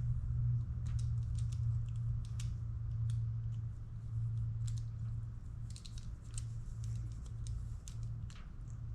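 Scattered small clicks and snips of hands working automotive wires and crimp butt connectors, over a steady low hum.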